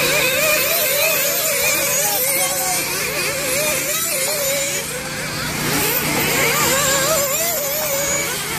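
Several nitro RC buggies' small two-stroke glow engines racing together, each pitch rising and falling as the cars accelerate and brake around the track.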